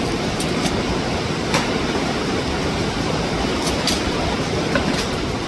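Rushing water of a mountain waterfall and stream, a steady loud noise, with a few short clicks over it.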